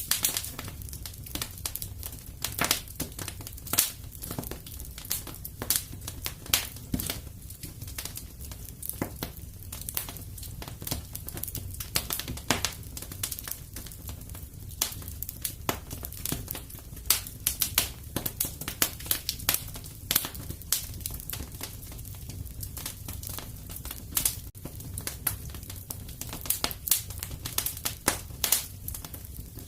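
Fireplace fire crackling, with many irregular sharp pops over a low steady rumble.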